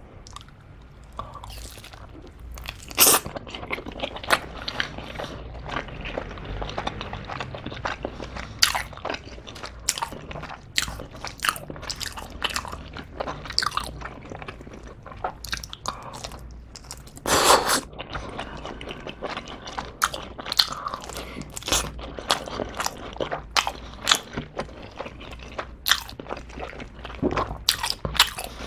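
Close-miked chewing of a slice of black sugar bubble tea pizza topped with tapioca pearls and cheese: steady crunching and chewing with many short sharp clicks. The two loudest bites come about 3 and 17 seconds in.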